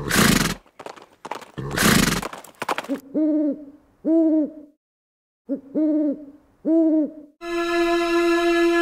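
A cartoon sound-effect track. It starts with two loud, breathy snorts like a horse's. Next come two pairs of low hooting bird calls, each with a rise and fall in pitch. About 7.5 seconds in, a long, steady musical note with many overtones begins.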